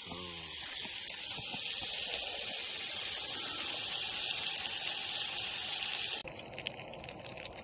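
Pork frying in a pan over a portable gas burner: a steady sizzling hiss that grows stronger, then changes suddenly about six seconds in to sharper crackling.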